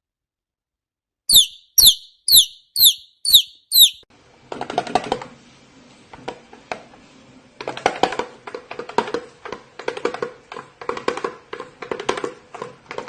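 A parrot giving six short, sharp chirps, each falling in pitch, about half a second apart, then a busy run of rapid clicks and scratchy noise over a steady low hum.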